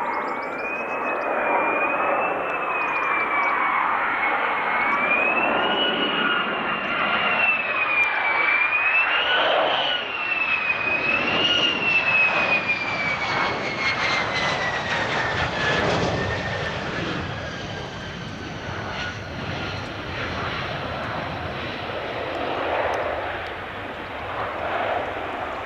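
Military jet engine running loud, with a high whine that wavers up and down, then falls slowly in pitch through the second half as the noise eases a little.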